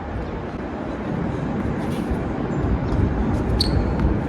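Strong wind buffeting the microphone, a steady low rumble, with a sharp knock about three and a half seconds in.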